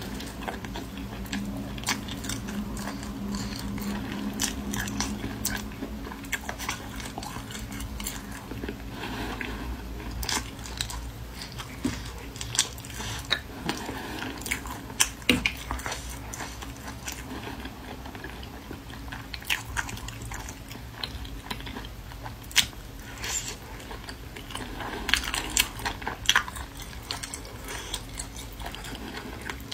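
Close-miked chewing and biting with wet mouth smacks and many short sharp clicks as she eats pieces of food in chili sauce.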